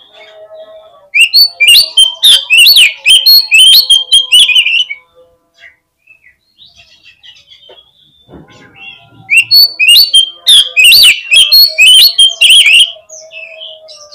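Oriental magpie-robin (kacer) singing two loud bursts of rapid, chattering song, each about four seconds long, the second starting about nine seconds in. Fainter bird notes fill the pause between the bursts.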